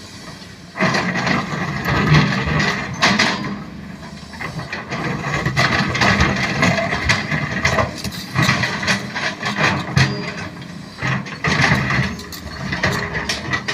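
SANY SY215C hydraulic excavator at work, its engine running under load beneath rapid metallic clattering and scraping. The clatter starts abruptly about a second in.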